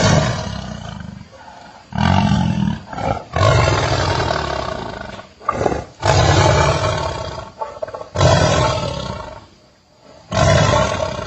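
Tiger roaring over and over, about one roar every two seconds, each loud at the start and trailing off.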